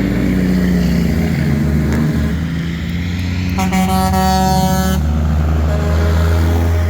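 Heavy truck engines running with a low, steady drone, and a single air horn blast of about a second and a half near the middle.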